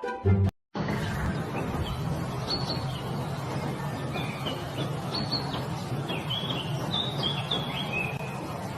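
Small birds chirping with short, high, repeated calls over a steady background noise.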